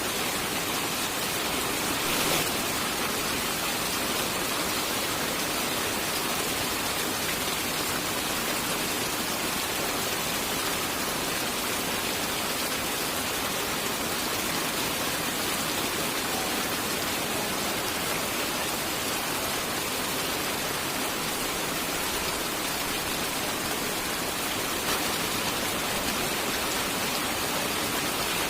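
Steady rain falling, an even dense hiss, with one brief louder tap about two seconds in.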